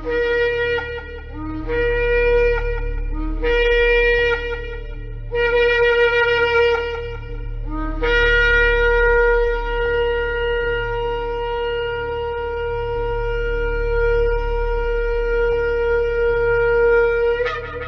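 Shofar blown: four short blasts, each sliding up from a lower note to a higher one. Then comes one long held blast of about nine seconds, which jumps sharply upward in pitch right at its end.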